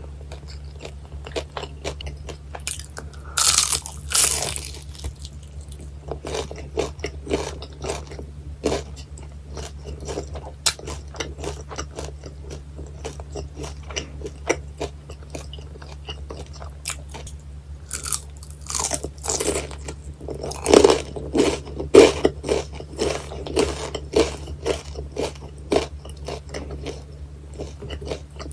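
Close-miked eating of guobaorou, crispy deep-fried sweet-and-sour pork: crunchy bites about three to four seconds in and again around twenty seconds in, with steady chewing and small crackles between. A low steady hum lies underneath.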